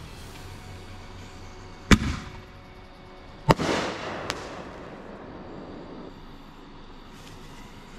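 Consumer artillery ball shell fired from a cardboard mortar tube: a deep launch thump, then about a second and a half later a sharp bang as the shell breaks. The break is followed by a crackling sizzle with one small pop, fading over a couple of seconds.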